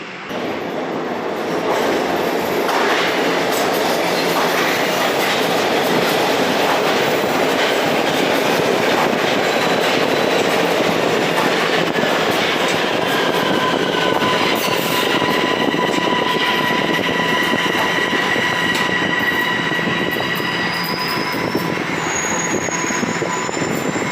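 A Toronto Rocket subway train running loudly along the rails, with wheel-on-rail rumble and clatter. The noise rises sharply just after the start and stays steady. In the second half, steady high-pitched tones from the train join in, and near the end a short rising whine.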